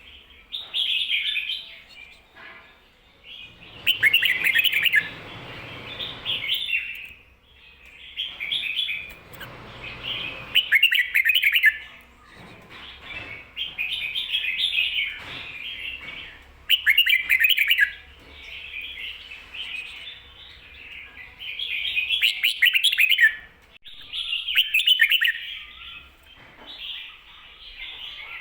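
Red-whiskered bulbul singing: short, bright warbled phrases repeated every couple of seconds. This is the 'ko-ta-ra' song type with a doubled ending.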